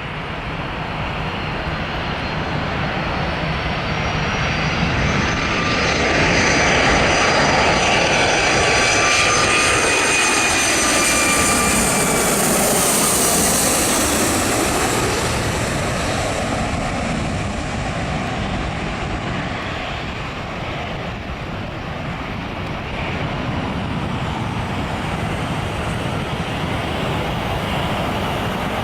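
Boeing 757-200 jetliner's engines on landing approach, passing by: the jet noise builds to a peak from about seven to thirteen seconds in, with high whining tones that drop slightly in pitch as it goes by, then eases off into a steadier rumble.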